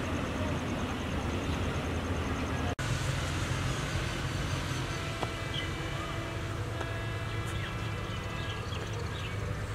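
Steady low rumble of a diesel-hauled train at the station. The sound drops out for an instant about three seconds in, and thin steady high tones join after about five seconds.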